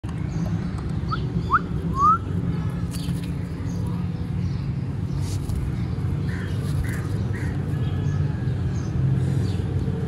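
Bird chirps: three short rising whistles in the first two seconds, then a few softer chirps about six to seven seconds in, over a steady low rumble.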